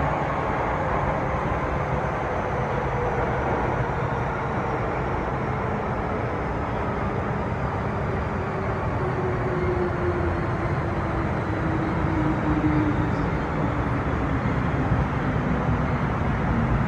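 MTR M-Train electric multiple unit running, heard from inside the car: a steady rumble and hiss of wheels on rail, with a traction-motor whine that falls slowly in pitch as the train slows.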